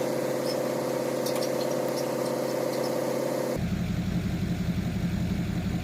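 Pickup truck engine running steadily: a mid-pitched drone that changes suddenly about three and a half seconds in to a lower idling rumble.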